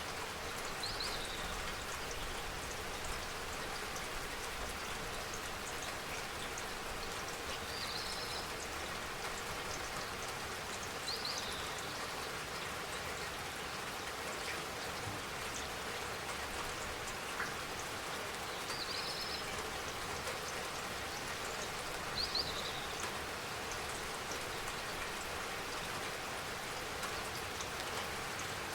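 Steady spring rain falling and pattering. Short high chirps recur every few seconds over it.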